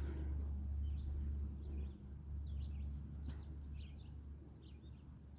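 Small birds singing in short, high chirps and trills, scattered throughout, over a low rumble that is loudest in the first two seconds.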